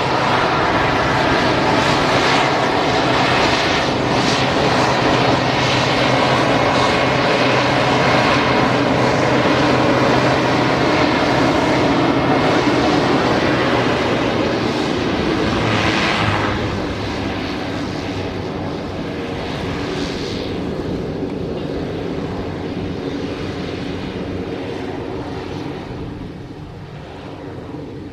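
Airplane engine running at high power, a loud steady hum with a fixed pitch. About sixteen seconds in it drops off and then fades gradually.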